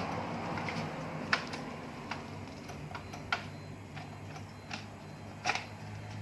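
Steady low hum of the electric motor fitted to a homemade motorized noodle machine, with scattered sharp metallic clicks and taps, the loudest about a second and a half in and near the end.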